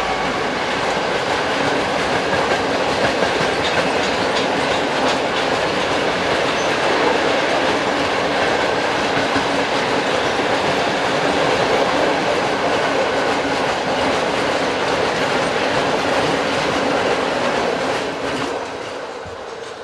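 Freight train of tank wagons rolling past at speed, wheels clattering over the rail joints; the sound fades away near the end as the train recedes.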